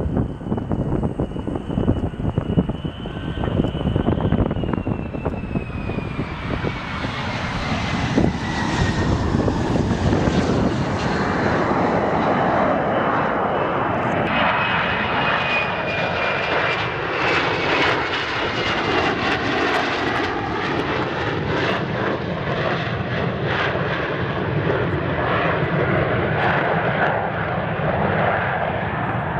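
F-35B Lightning II fighter jet engine running: a steady jet rumble and rush with a high whine that slides down in pitch over the first ten seconds. It grows louder about eight seconds in, and a second high whine comes in about halfway through.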